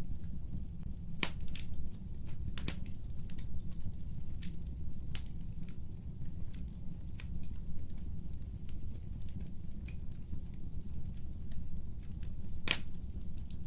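Fireplace fire crackling: a steady low rumble of flame with frequent small pops and a few sharp, louder cracks, the loudest one near the end.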